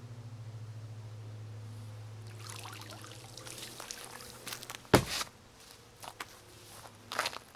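Water pouring and splashing in irregular spurts over a low steady hum, with one sharp loud knock about five seconds in.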